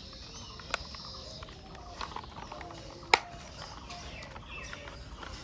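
Plastic toy car parts being handled and fitted together: a few sharp plastic clicks, the loudest about three seconds in.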